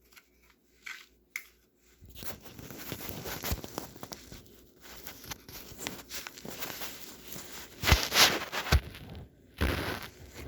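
Small flat screwdriver working at the plastic case of a LiftMaster garage door remote: scraping and rattling, with a few light clicks at first and several sharp, louder clicks near the end.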